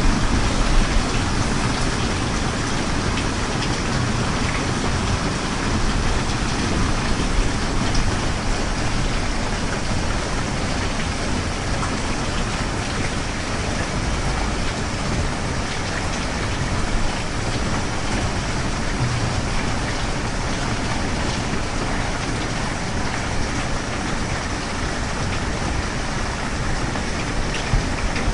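Steady heavy rain: a dense, even hiss with scattered drop ticks and a low rumble underneath.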